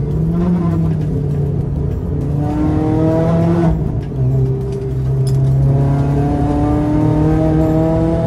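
In-car sound of a Renault Clio 197's 2.0-litre four-cylinder engine pulling hard on track. The revs climb, drop briefly about four seconds in as the car lifts for a bend, then climb steadily again.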